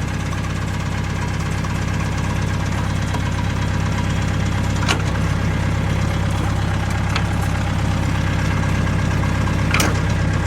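Diesel tractor engine running steadily at idle, with two short sharp clicks about five seconds in and near the end.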